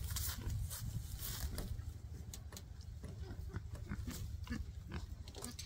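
Pigs grunting and shuffling around in rustling straw hay, with short crackling rustles and a few low grunts, over a steady low rumble on the microphone.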